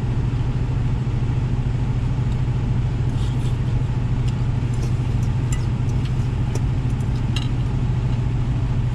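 Truck engine idling with a steady low hum, and a few light clicks between about three and seven and a half seconds in.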